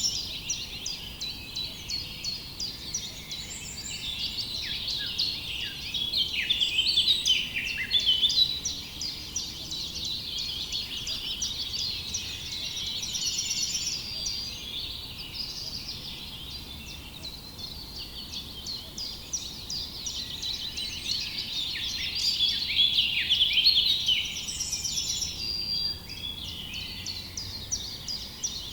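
A dense chorus of small birds chirping and singing, with many quick calls overlapping. It swells louder twice, about a quarter of the way in and again past the middle.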